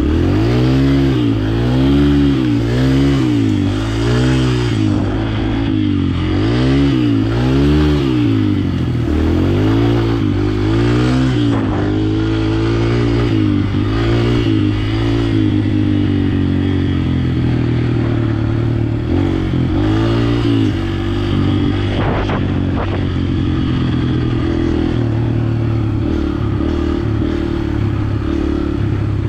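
A 125 cc four-stroke dirt bike engine revving up and down about once a second as the throttle is worked, then running at a steadier pitch for the second half.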